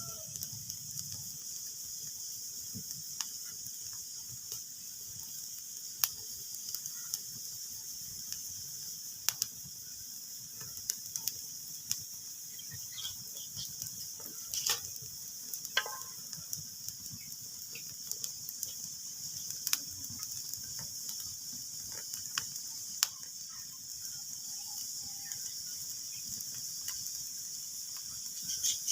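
Wood fire crackling: a steady hiss with sharp, irregular pops every few seconds.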